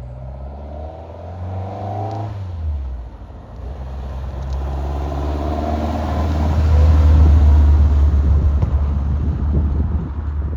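Classic car engines driving past one after another: the first car's note falls away about two seconds in, then a second car's engine builds up, is loudest a little past the middle, and eases off near the end.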